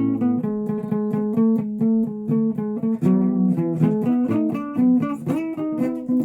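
A guitar being played: quick plucked single notes over ringing lower notes and chords.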